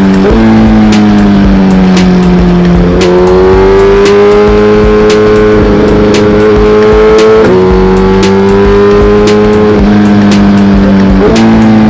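Suzuki GSX-R1000R's inline-four engine pulling at sustained high revs. Its pitch drifts slowly and jumps sharply down or up several times as gears or throttle change.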